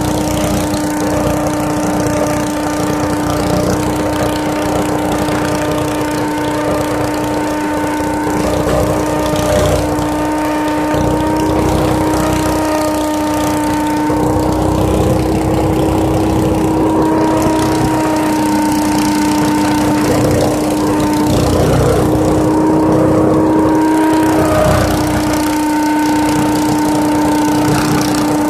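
Leaf vacuum running steadily, a constant motor hum with a rush of air and noise over it.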